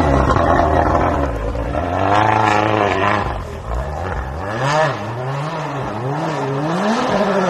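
Rally car engine revving hard as the car drives off through a snowy corner. The engine note swings up and down again and again with throttle and gear changes, and it gets fainter after the first few seconds.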